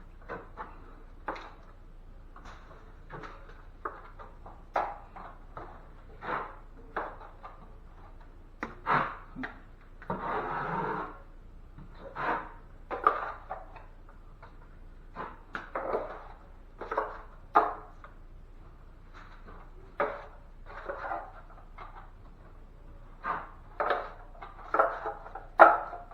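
Drywall knife working joint compound against a mud pan: irregular short scrapes and taps, with one longer scrape about ten seconds in and a sharp knock near the end.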